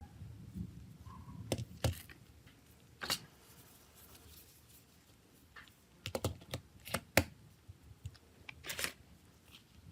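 Irregular light clicks and taps of small hard parts being handled, coming in scattered groups: a couple about one and a half seconds in, one about three seconds in, a quick run of several about six to seven seconds in, and one more near the end.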